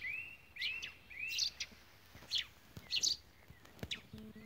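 Small songbirds chirping: a quick run of short rising notes repeated about twice a second for the first second and a half, then scattered higher chirps.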